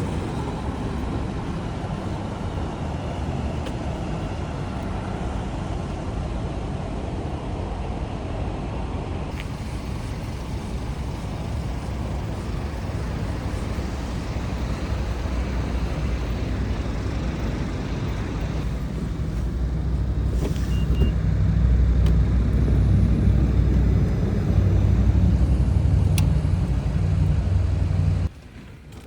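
Vehicle driving at road speed: steady road and engine noise that grows louder and deeper about two-thirds of the way through, then cuts off abruptly near the end.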